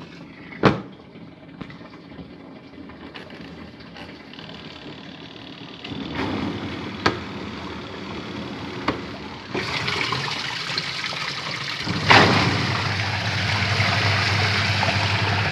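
Water running and sloshing in the tub of an Innovex DSAN-65 semi-automatic washing machine, with sharp clicks from its controls. The water noise grows louder partway through, and about twelve seconds in a loud knock is followed by a steady low hum under the water, as the wash runs to rinse dust from the new tub.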